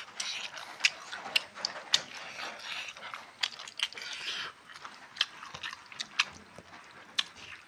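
Close-up mouth sounds of chewing food: irregular sharp wet clicks and smacks with noisy crunching and slurping in between.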